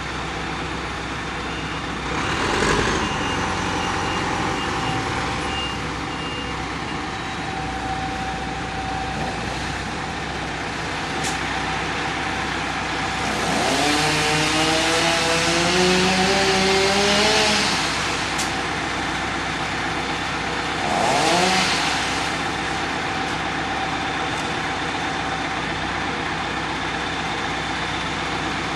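Diesel engines of a front-end loader and dump truck running steadily, revving up three times as the machinery works, the longest near the middle. A short run of high beeps sounds a few seconds in.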